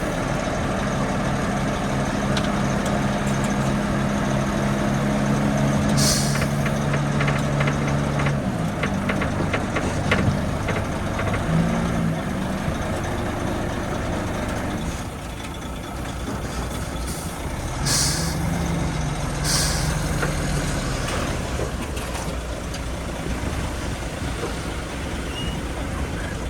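Heavy diesel engine of a dump truck running, steady at first and rougher from about a third of the way in, with three short hisses of the truck's air brakes.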